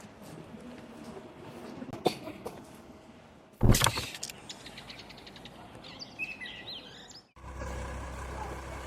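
Outdoor ambience from short spliced clips: a sharp loud knock a little over a third of the way in, then a few bird chirps, then a sudden switch to a steady low hum with a faint even tone near the end.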